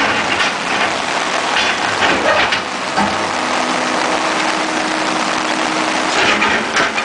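Heavy downpour of rain, a steady loud hiss with a few brief surges, over an engine idling.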